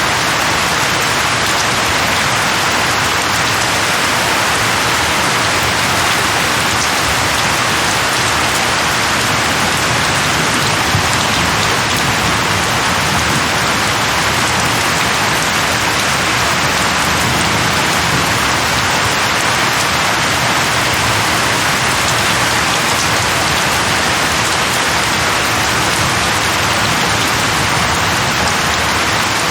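Steady rain falling, an even continuous hiss without thunder or breaks.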